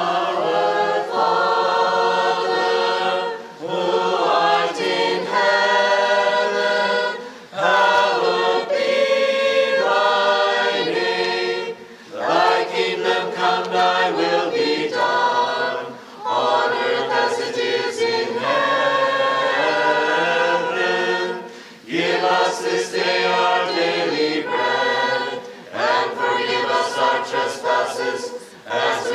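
Choir singing unaccompanied in Ukrainian Catholic liturgical style, in sung phrases of a few seconds each with short breaths between them: the sung responses of the wedding liturgy.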